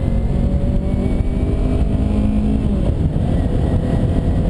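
Wind rushing over a helmet-mounted camera on a moving motorcycle, with the Kawasaki Ninja 250R's parallel-twin engine running underneath. The engine's tone drops away a little past halfway, leaving mostly the wind rumble.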